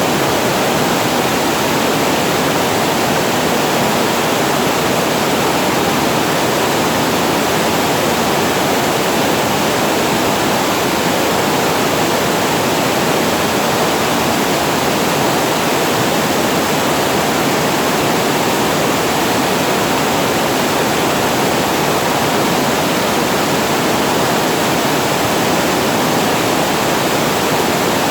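Water spilling over a reservoir weir and falling below it, a steady, even rush of falling water with no breaks.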